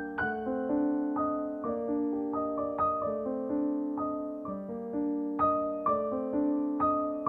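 Background music: a gentle piano piece, single notes and chords struck about once or twice a second and left to ring.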